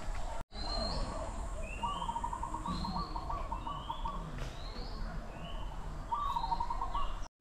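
Birds calling: a short rising chirp repeated about once a second, with a fast trill in two stretches, one around the middle and one near the end.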